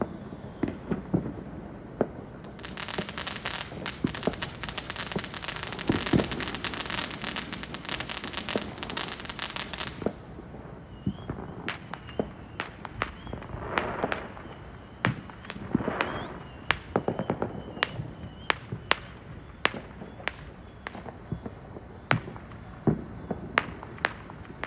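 Fireworks and firecrackers going off: a dense crackling string of rapid pops lasting about seven seconds, then separate sharp bangs about once a second.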